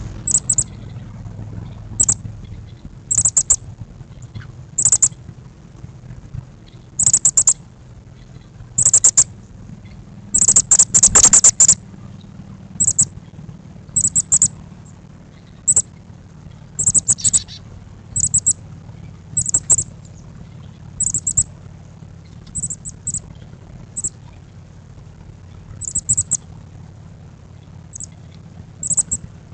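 Songbirds calling: short, very high-pitched chirps in quick clusters every second or two, the busiest and loudest run about ten to twelve seconds in, over a low steady hum.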